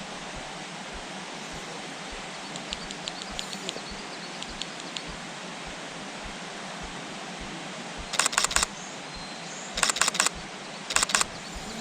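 Camera shutter firing in three rapid continuous-shooting bursts, each about half a second of quick clicks, about 8, 10 and 11 seconds in, over a steady faint outdoor hiss.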